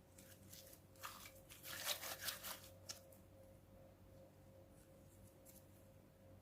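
Clear-glue and borax slime being squeezed and pulled by hand: a burst of small sticky crackles and snaps lasting about two seconds, starting about a second in. A faint steady hum sits underneath.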